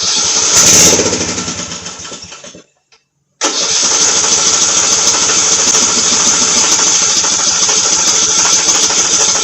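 Vintage Murray 11/36 riding mower's starter cranking the engine in two tries without it catching. The first try lasts about two and a half seconds and fades out; after a short pause, a longer steady crank follows. The owner takes the no-start for a stuck fuel shut-off solenoid.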